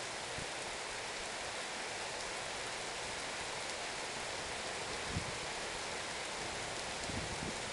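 Steady downpour of rain, an even hiss with no thunder. A few heavier drops land close by with short dull knocks about five seconds in and again near the end.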